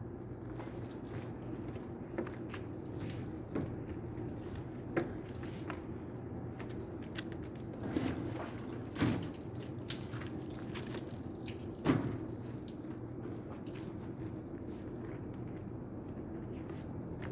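Water dripping and splashing while a car is washed, with scattered short knocks over a steady low hum.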